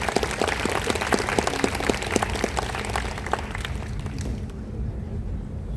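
Audience applauding; the clapping thins out and dies away about four seconds in.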